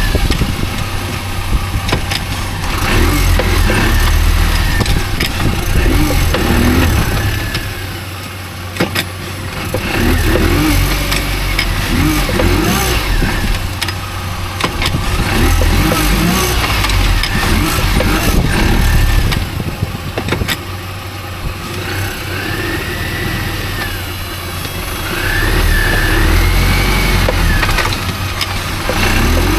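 Mini Cooper S (R52) on the move: a heavy low rumble of engine and road with repeated irregular knocks from the front left, which the owner takes for a failing driveshaft. A whine rises and falls in pitch several times as the revs change.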